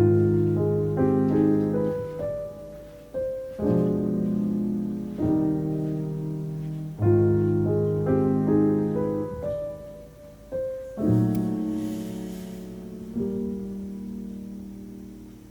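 Background piano music: soft, slow chords and melody notes in gently repeating phrases.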